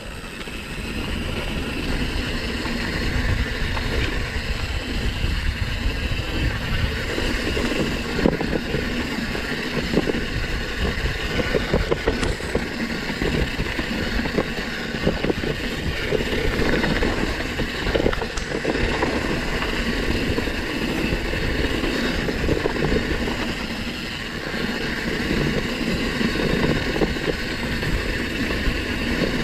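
Downhill mountain bike riding down a rough dirt trail: a continuous rumble of tyres and suspension over the ground, with frequent clattering knocks from the bike. Heard from a camera on the rider's chest, with some wind on the microphone.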